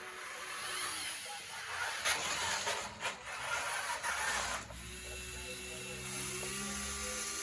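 Small electric motors and hydraulic pumps of radio-controlled scale construction machines whining, changing pitch as they work, with a few sharp clicks and knocks in the middle.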